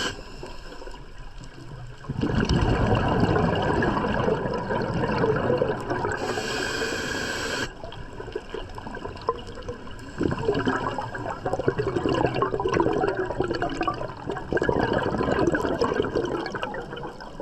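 Scuba diver breathing through a regulator underwater: exhaled bubbles gurgle out in three long bursts of several seconds each, with quieter pauses between them and a brief hiss of inhalation.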